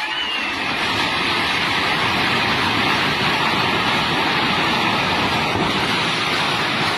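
Swollen floodwater of a river rushing past in a loud, steady roar of water noise.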